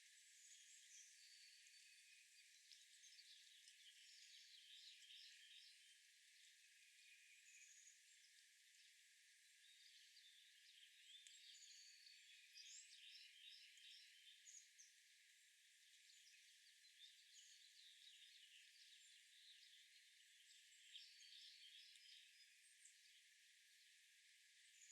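Faint wild birds chirping and calling outdoors: many short, high chirps and a few brief whistles, coming in clusters over a steady faint hiss.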